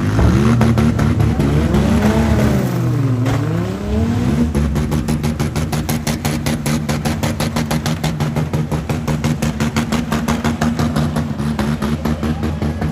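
Demolition-derby minivan engine revving. Its pitch swings up and down in the first few seconds, then holds at steady high revs with a rapid, rough pulsing.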